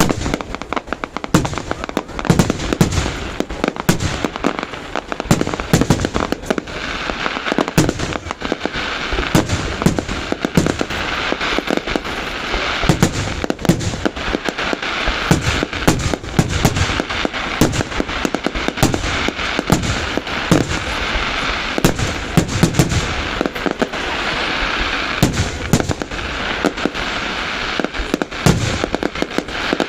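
Fireworks display: dense, unbroken volleys of aerial shell bursts, with a thick crackling between the bangs.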